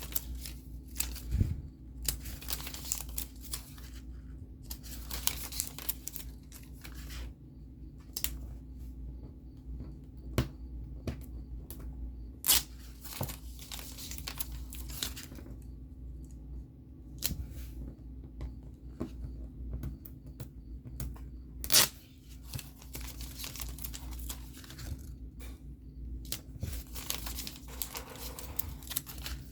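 Paper and packaging being handled for a DIY book kit: irregular bursts of rustling, crinkling and tearing, with two sharp knocks, one about twelve seconds in and one about twenty-two seconds in, over a steady low hum.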